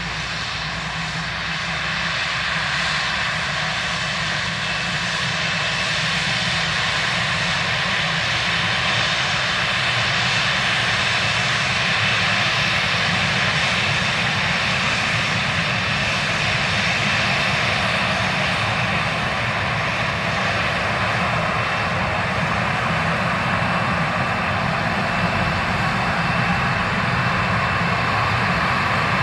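Boeing 737-800's CFM56-7B jet engines running at taxi power, a steady whine over rumble, growing slowly louder for the first ten seconds or so and then holding level.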